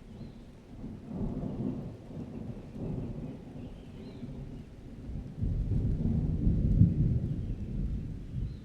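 Rolling thunder rumbling deep and low, swelling louder about halfway through, over steady rain.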